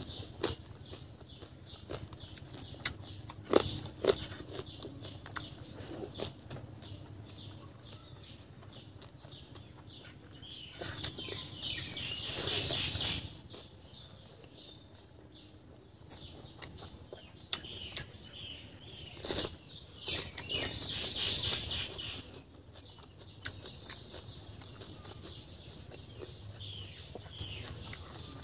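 Close-miked eating by hand: chewing, lip smacks and scattered sharp clicks from mouth and fingers on the food. Bird chirping comes in twice, in two longer stretches.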